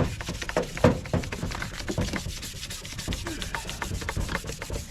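Fast, even back-and-forth scrubbing by hand on a wet part of a truck, many strokes a second, with a few louder knocks in the first two seconds.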